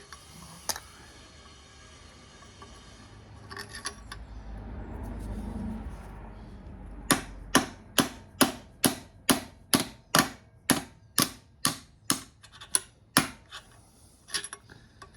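A hand tool working a nut on a metal engine part: a run of about fifteen sharp metallic clicks, about two and a half a second, starting about halfway through and stopping shortly before the end. A low rumble of handling comes before it.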